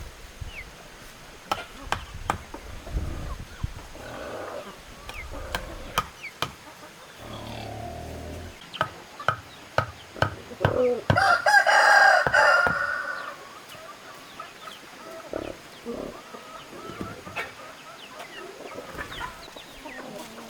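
Chickens clucking, with a rooster crowing once about eleven seconds in, the loudest sound. Scattered sharp taps and knocks run throughout.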